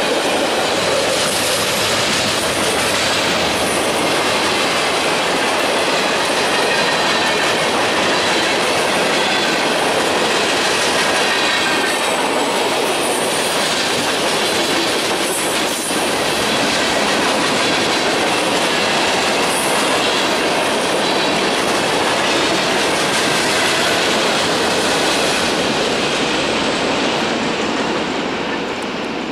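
Manifest freight train's cars rolling past close by: a steady, loud rumble and clatter of steel wheels on rail, with a faint thin squeal from the wheels. The sound dies away over the last couple of seconds as the train clears.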